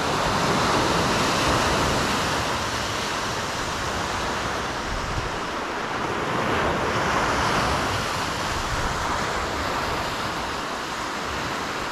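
Lake Superior surf washing steadily onto the beach, a continuous rush that swells slightly and eases again.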